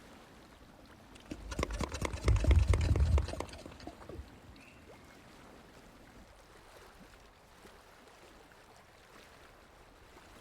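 White-lipped peccary sound: a rough burst full of rapid clicks and a low rumble, starting about a second in and lasting about two and a half seconds, then a faint steady background.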